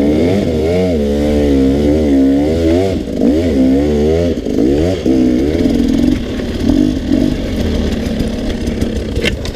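Dirt bike engine revved in quick repeated blips, its pitch rising and falling rapidly, then settling to a steadier, lower run about halfway through.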